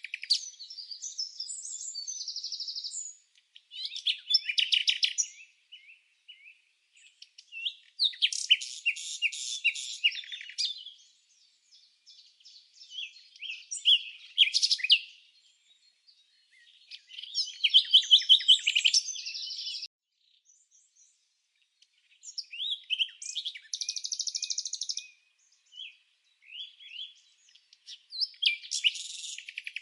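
Birdsong: phrases of rapid high trills and chirps, each one to three seconds long, repeating with short pauses between.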